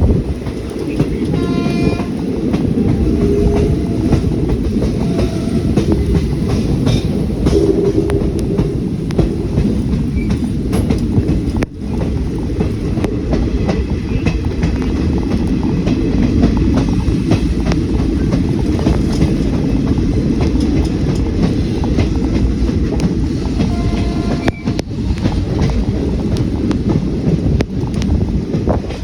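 Train running along the track: a steady rumble with wheels clicking over the rail joints. A train horn sounds briefly about two seconds in and again near the end.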